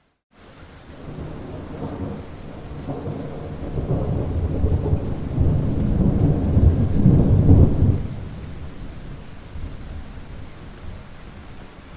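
Rolling thunder over steady rain. After a brief dropout at the very start, a long low rumble builds, peaks around the middle and dies away over the last few seconds, while the rain hiss carries on.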